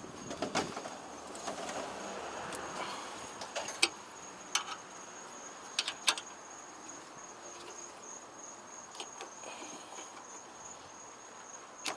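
Scattered sharp metallic clicks and clinks of a hand tool and parts being handled in a car's engine bay, with some rustling in the first few seconds, over a steady high-pitched tone.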